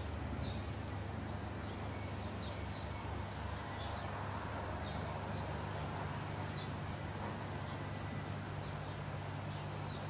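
A bird giving short, high, falling chirps about once a second over a steady low hum.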